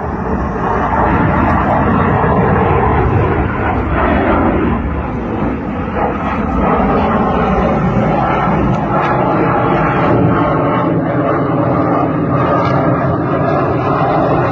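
Loud jet noise from an F-16 fighter in flight: a steady, dense rush that swells and eases a little without breaking off.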